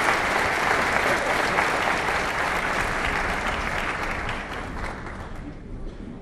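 Large audience applauding after a song, loud at first and then dying away after about five seconds.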